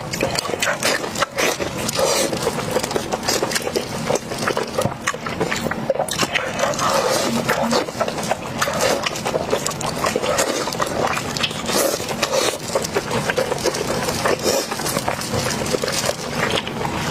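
Mukbang eating sounds: wet chewing and crunching on pig ear, a dense, unbroken run of crackles, clicks and mouth smacks.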